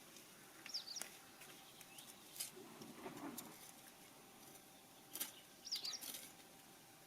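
Small bird chirping briefly twice, about a second in and again near the end, over quiet background, with a few sharp ticks and a short soft rustle in between.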